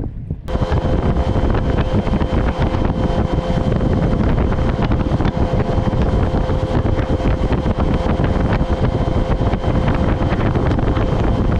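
Boat motor running at speed with heavy wind buffeting the microphone, starting suddenly about half a second in and holding steady, with a faint steady whine above the rumble.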